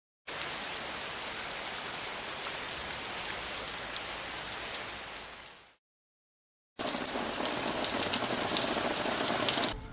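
Steady rain, fading out about five and a half seconds in. After a second of silence, louder rain falling on a mulched garden bed cuts in.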